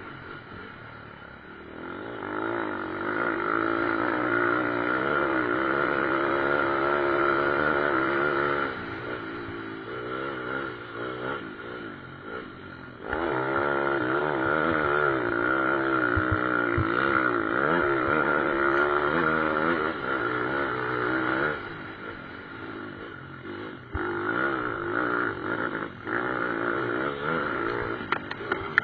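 Pit bike engines revving up and down in pitch as the bikes race by, loudest in three stretches with quieter gaps between as they move away.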